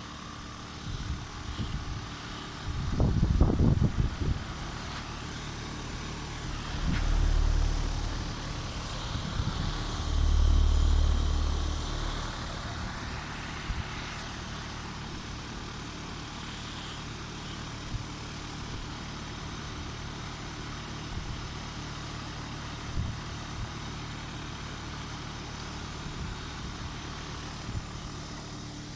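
Carrier heat pump running in heat mode: a steady hum of the compressor and two-blade fan. Louder low rumbles come a few seconds in and twice more near the middle.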